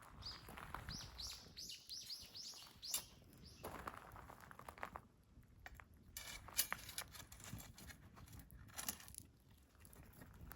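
A small bird singing a quick run of about a dozen high chirps in the first three seconds, with scattered faint crackles and snaps.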